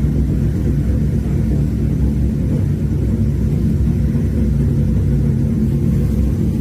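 Loud, steady deep rumble with no sudden events.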